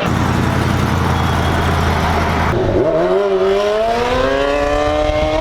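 Vehicle engine under way: a steady drone with road noise, then about two and a half seconds in the pitch drops briefly, as at a gear change, and climbs steadily as the engine accelerates.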